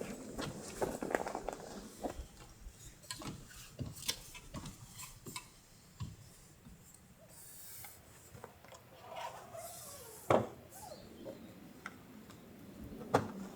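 Light handling noises: scattered clicks, taps and rubbing of objects being moved, with two sharper knocks, one about ten seconds in and one near the end.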